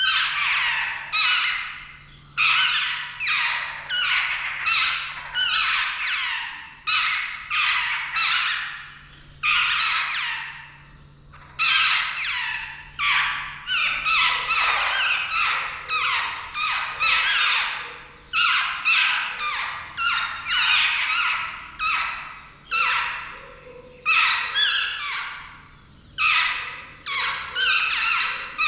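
Jungle babblers giving harsh, squeaky calls over and over, about two to three a second, in runs broken by short pauses.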